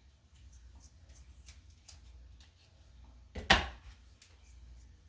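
Kitchen knife working on a cutting board, cutting bacon: faint scattered taps, then one loud knock about three and a half seconds in.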